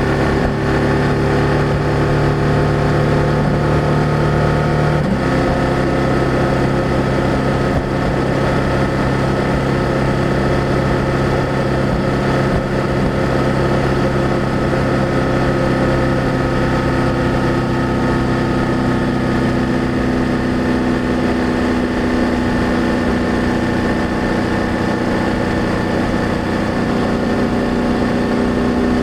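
BMW F800GS parallel-twin engine and exhaust under way at steady cruise. About five seconds in the engine note drops a step, as on a shift up a gear, then climbs slowly as the bike picks up speed.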